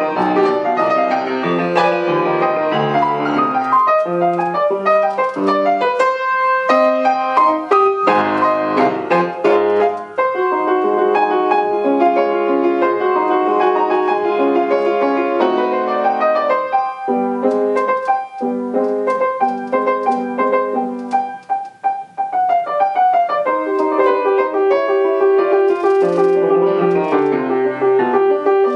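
Solo piano playing a classical piece: quick passages of notes over shifting chords, with short breaks in the sound about ten seconds in and again about two-thirds of the way through.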